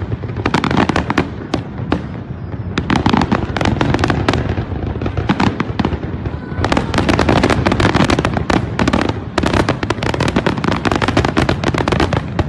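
Aerial firework shells bursting in rapid succession: a dense, unbroken barrage of bangs and crackles over a low rumble, thickest in the second half.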